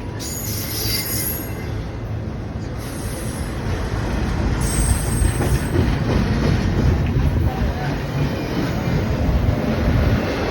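BNSF freight train of intermodal cars rolling past close by: a steady, loud rumble of wheels on the rails, with high-pitched wheel squeal coming and going several times in the first half.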